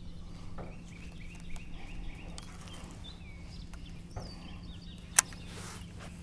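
A quick series of faint bird chirps over a steady low hum, with one sharp click about five seconds in.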